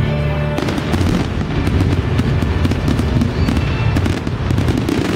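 Fireworks finale: dense, rapid crackling and popping bursts over a low rumble. It begins about half a second in, just as the show's held music note cuts off.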